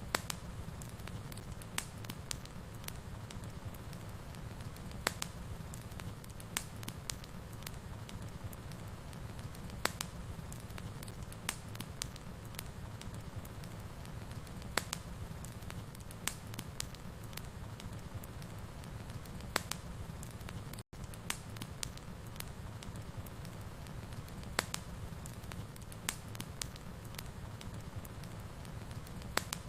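Fireplace fire crackling, with irregular sharp pops over a steady low rumble. The sound drops out for an instant about two-thirds of the way through.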